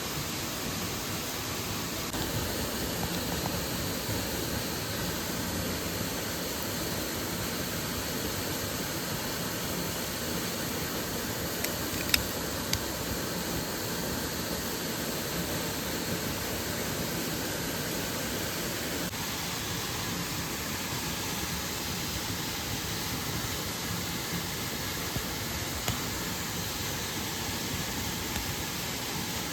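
Waterfall and mountain stream rushing steadily, with a couple of sharp clicks about halfway through.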